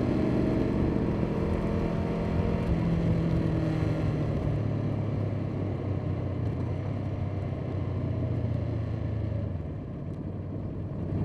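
Motorcycle engine running while riding. The engine note drops to a lower, steady pitch about four to five seconds in, dips again near the end, then rises briefly.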